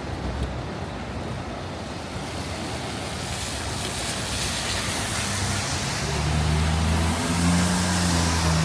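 Traffic on a wet street in the rain: the hiss of a vehicle's tyres on the wet road grows louder from about three seconds in, and a low engine hum joins it over the last few seconds.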